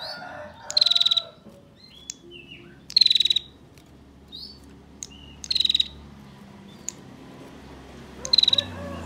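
Female prinia (prenjak) giving its rapid, buzzy rattle call four times, each rattle about half a second long and dropping slightly in pitch.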